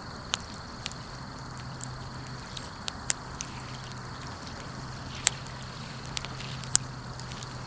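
Wood fire crackling: irregular sharp pops over a steady soft hiss, the loudest pops about five and a half and seven seconds in.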